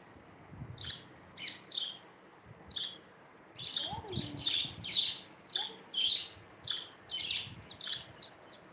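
Budgerigar chirping in a string of short, high calls, coming thicker in the second half.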